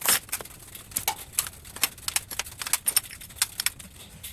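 Small pieces of aluminum scrap clinking against each other as they are handled, a string of light, irregular metallic clicks with the loudest right at the start.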